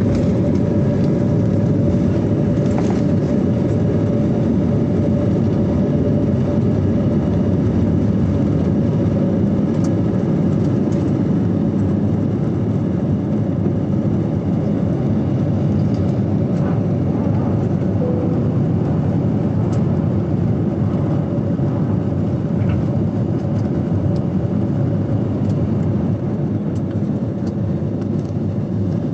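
Aeroplane during take-off: a loud, steady low rumble of engine and airframe noise with a constant hum running through it.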